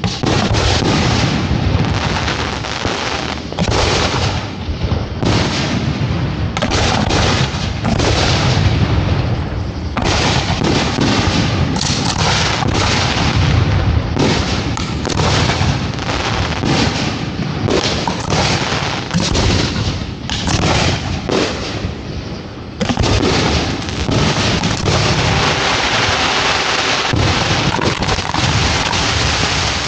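Fireworks show being fired: aerial shells launching and bursting in rapid, overlapping succession, with heavy booms. About three-quarters of the way through, the barrage thickens into a denser, almost continuous rumble and crackle.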